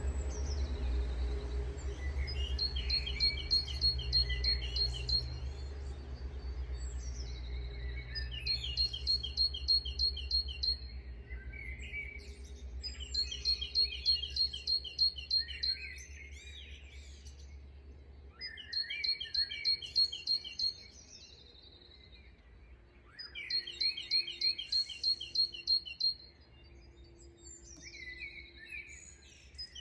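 Songbirds singing: one bird repeats a quick, high trill of evenly spaced notes about every five seconds, with other birds chirping between. A low rumble lies underneath for the first two-thirds or so, then drops away.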